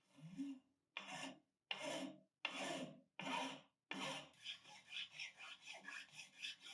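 Hand file scraping in long strokes, about five slow passes, then quicker short strokes for the last few seconds.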